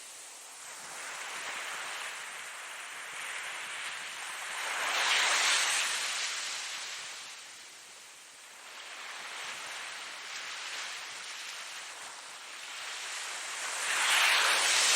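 Ocean surf: waves breaking in slow swells, the two loudest about five seconds in and near the end, with softer surges between.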